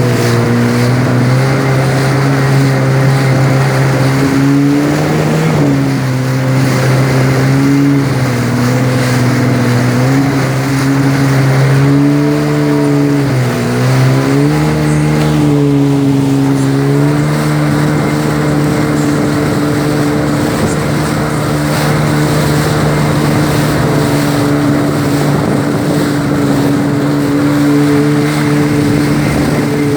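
Jet ski engine running at steady high speed. Its pitch dips and comes back up several times in the first half as the throttle eases and opens again, then holds steady.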